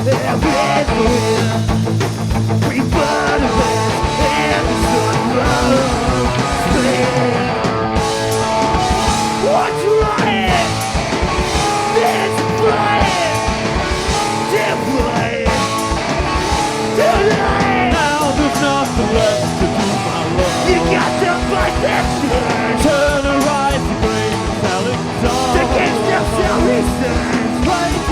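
Live punk rock band playing: electric guitars, bass and drums, with a singing voice over them in the middle stretch.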